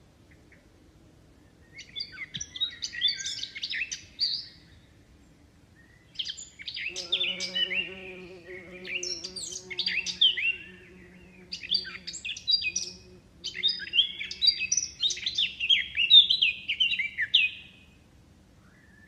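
A songbird singing in five bursts of rapid, varied high chirping notes, with short pauses between the bursts. A low, steady hum comes in about seven seconds in and fades away later.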